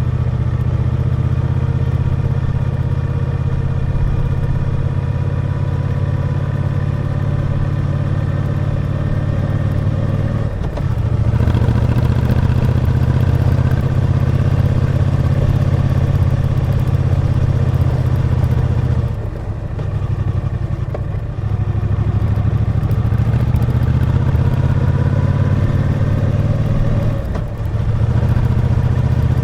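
Triumph Bonneville T120 parallel-twin engine running under load on the road, its steady note dipping briefly three times as the throttle comes off, about a third of the way in, about two-thirds in and near the end.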